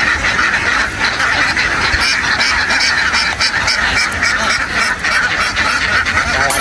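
A huge flock of domestic ducks quacking all at once in a dense, unbroken din, with a low rumble underneath.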